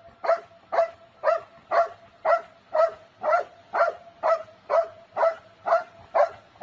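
An animal giving a run of about thirteen short, evenly spaced calls, roughly two a second, over a faint steady tone.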